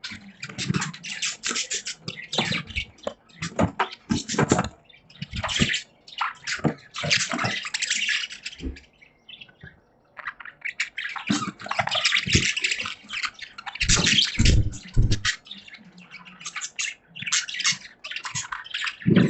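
Budgies chattering and chirping in uneven bursts of quick, scratchy notes, with a short pause about nine seconds in. A few low thumps come around fourteen seconds.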